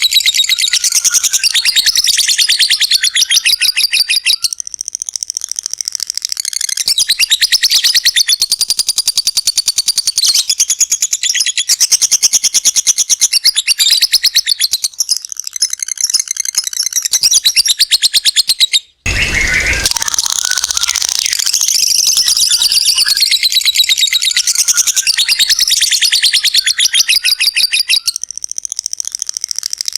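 Lovebird giving long, very rapid high-pitched chattering trills (ngekek panjang), running for several seconds at a time with short pauses between. About two-thirds of the way through, the chatter drops out for a moment and a dull low thump is heard.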